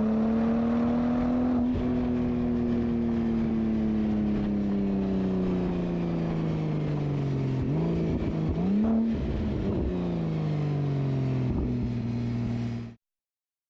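Porsche Turbo engine through a Fabspeed aftermarket exhaust, its note slowly falling in pitch as revs drop, a quick blip of revs about eight seconds in, then settling to a steady lower note before the sound cuts off suddenly near the end.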